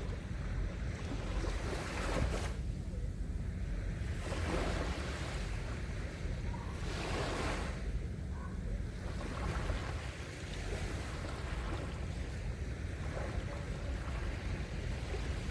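Small waves breaking and washing up a sandy beach in a few surges, over a steady low rumble of wind on the microphone.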